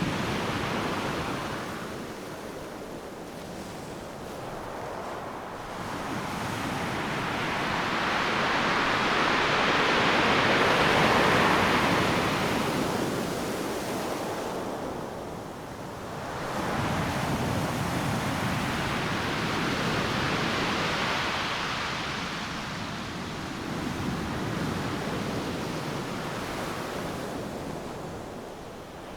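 Ocean surf breaking on a beach: a steady wash of noise that swells and eases with each wave, loudest about ten seconds in, then two smaller surges.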